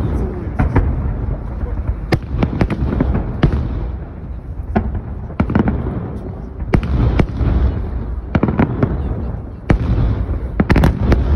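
Large fireworks display: aerial shells bursting overhead in a rapid, irregular series of sharp bangs over a continuous low rumble.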